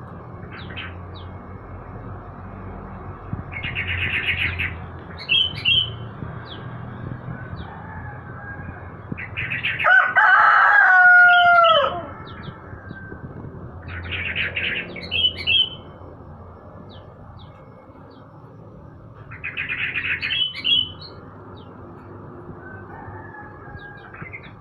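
Songbirds singing short trilled phrases, each followed by a few clear notes, about every five seconds, while a rooster crows once near the middle, the loudest sound, its call falling in pitch at the end.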